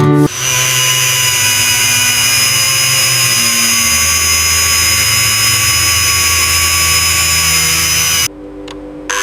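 A small power tool running steadily at high speed. It cuts out sharply near the end for just under a second, then starts again.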